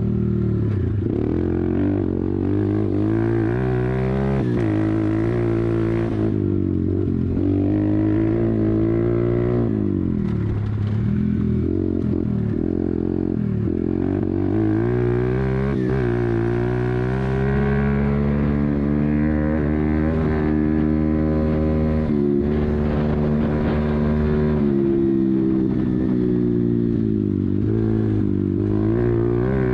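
YCF 125 pit bike's single-cylinder four-stroke engine being ridden, its pitch climbing under throttle and dropping back again and again.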